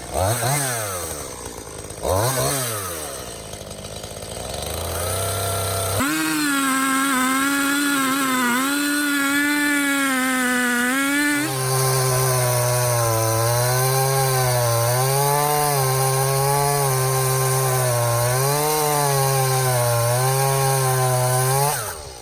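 Stihl MS 171 two-stroke chainsaw: two quick throttle blips, a short idle, then held at full throttle; about halfway through, the pitch drops sharply and wavers as the chain bites and labours through a pine log, before the saw falls back off throttle near the end.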